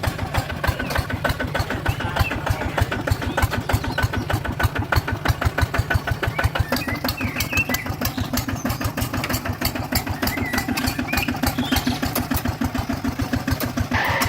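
Mini RC tractor's engine running with a steady, slow chug of about five beats a second, with a steady hum joining about seven seconds in.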